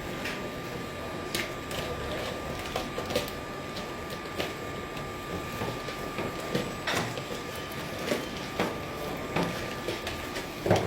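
Parcel being unpacked by hand: scattered clicks, knocks and rustles of cardboard and packaging, over a faint steady whine in the background.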